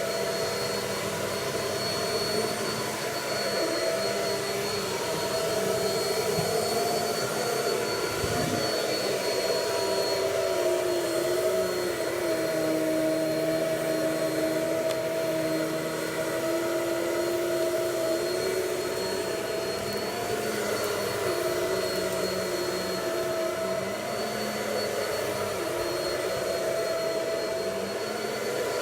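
Vacuum cleaner running steadily, its motor whine shifting slightly in pitch in the middle and then settling back.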